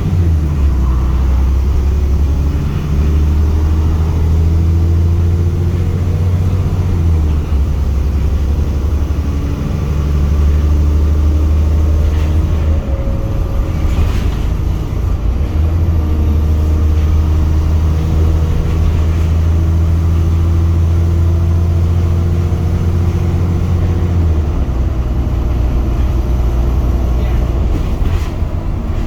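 Wright Pulsar single-decker bus engine running under way with a low, loud drone, its note shifting several times: the sound of a blown exhaust.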